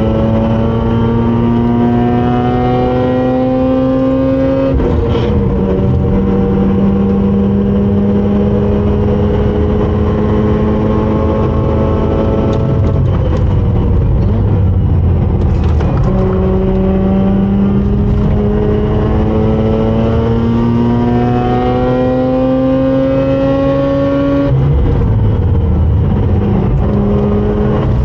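Mazda RX-8's rotary engine at full throttle on track, its pitch climbing slowly through long pulls. The note steps down at an upshift about five seconds in. Near the middle it drops away and breaks up as the driver lifts for a corner, then climbs again from about sixteen seconds, with another upshift near the end.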